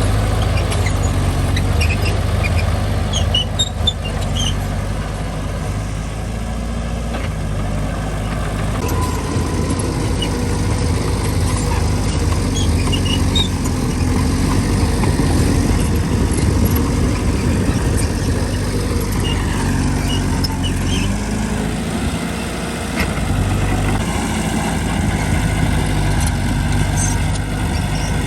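Diesel engine of a mini Mitsubishi bulldozer running steadily under working load, its engine note shifting in pitch a few times, with scattered faint high squeaks.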